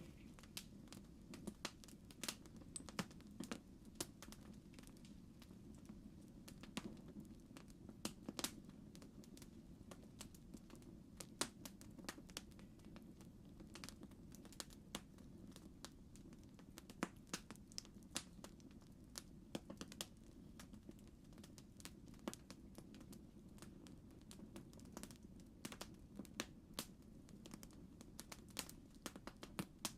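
Campfire crackling: faint, irregular pops and snaps over a low, steady rumble.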